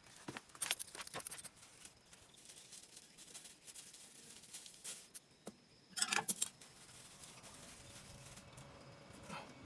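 Scattered light clicks, taps and rustling from hands working with small parts and tools, busiest in the first second and a half and again about six seconds in.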